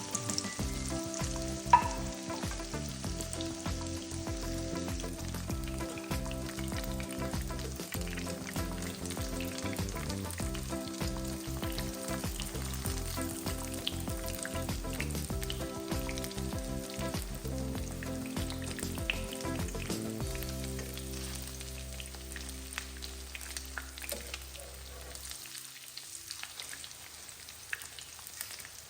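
Chicken cutlets frying in hot oil, with a steady sizzle and crackle. There is one sharp click about two seconds in.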